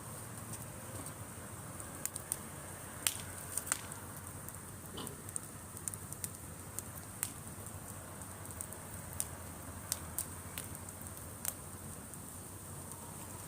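Driftwood campfire crackling: irregular sharp pops and snaps, a dozen or more scattered through, over the low steady rush of the burning wood.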